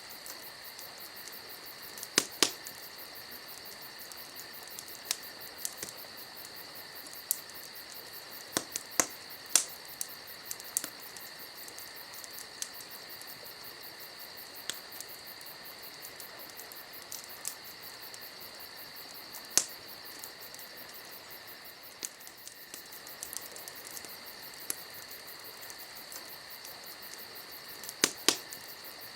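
Campfire crackling, with scattered sharp pops a few seconds apart, over a steady chorus of night insects chirping.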